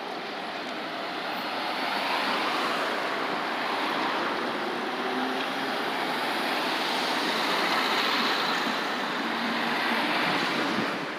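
City street traffic: a steady rush of passing cars with faint engine hum. It swells about two seconds in and falls away near the end.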